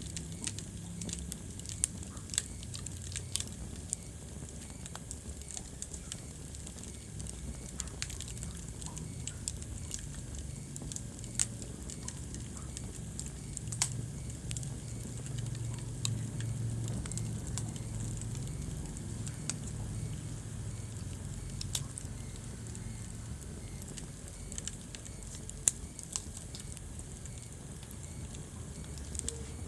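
Wood fire burning in a fireplace, crackling with sharp irregular pops over a low, steady rumble of flames.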